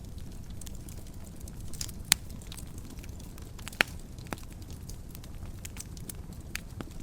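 Wood fire burning in a fireplace with a steady low rumble and scattered sharp crackles and pops, the loudest two about two seconds in and just under four seconds in.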